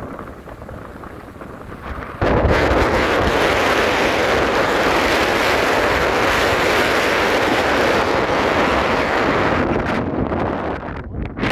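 Strong mountain wind blowing over the microphone. It jumps suddenly to a loud, steady rush about two seconds in and eases near the end.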